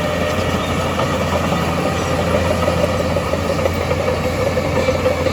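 Heavy diesel engine of an earthmoving machine running steadily at an even speed, with no marked revving.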